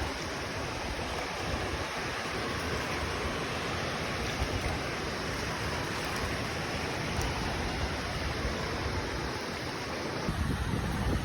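Steady rushing wash of ocean surf. Near the end a low rumble of wind on the microphone joins in and the sound grows louder.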